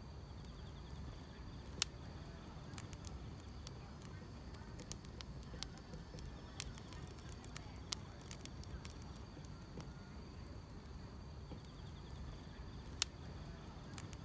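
Wood fire crackling, with scattered sharp pops and two louder ones about two seconds in and near the end, over a low steady rumble. Grass insects chirring faintly in a steady high trill behind it.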